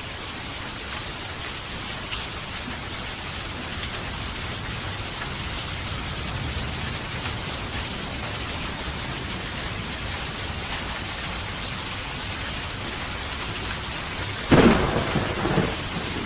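Steady rain falling, with a sharp thunderclap about two seconds before the end that rumbles away over a second or two.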